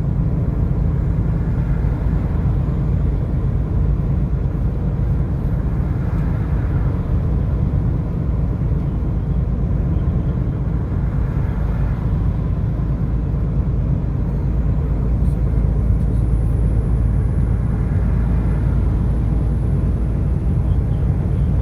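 A car driving along at a steady speed: a constant low rumble of road and engine noise.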